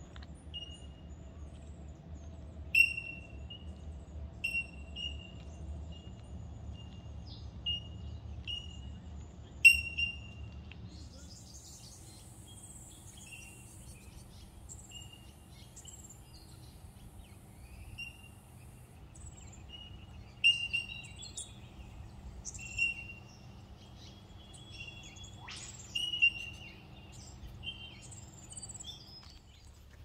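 Wild birds calling, with many short, sharp chirps repeating every second or so and a couple of louder calls, over a low steady rumble.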